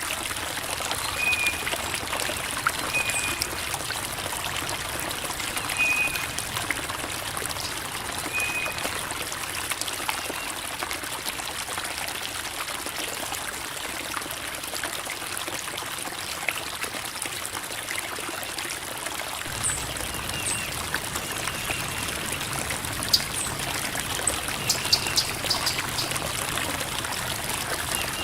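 Creek water babbling and trickling over rocks in a steady, unbroken wash, with a few brief high chirps in the first half.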